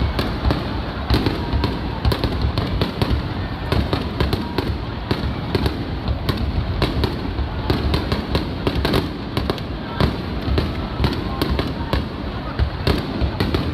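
Aerial fireworks bursting in rapid succession: a dense stream of sharp bangs and crackles over low rumbling booms.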